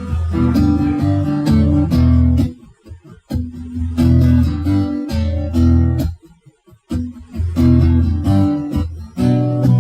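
Live band's instrumental solo break: guitar chords strummed over low bass notes, with two short full stops about three seconds and six and a half seconds in.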